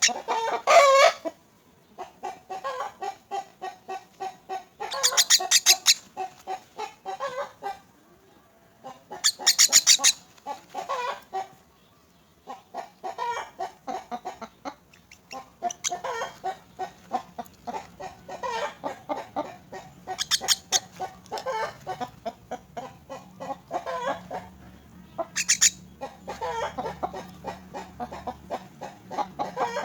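Myna chicks giving rapid, harsh begging calls in quick runs, broken by several loud screeching bursts.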